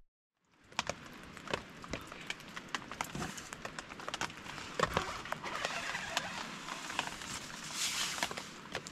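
Rain and drips tapping irregularly on a tarp over a soft background patter, starting about a second in after a moment of silence.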